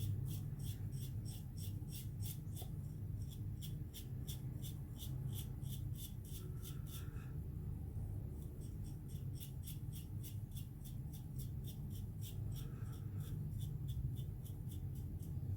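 Gillette Black Beauty double-edge safety razor scraping through lathered stubble in short, rhythmic strokes, about three a second, with a pause of about a second midway. A steady low hum sits underneath.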